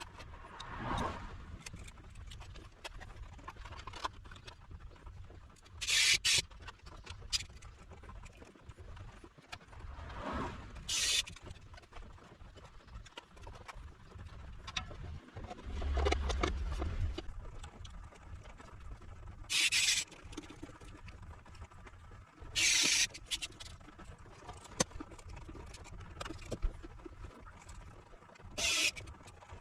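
Intermittent handling noises on a workbench: about five short scraping or rustling bursts, with scattered light clicks in between.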